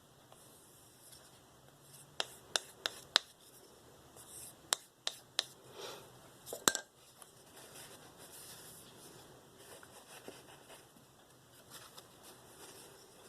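A knife being stropped on a small balsa strop loaded with 1 micron diamond paste: soft scraping strokes of steel over the wood, with a run of sharp clicks from about two seconds in, eight or so, the last near the seven-second mark.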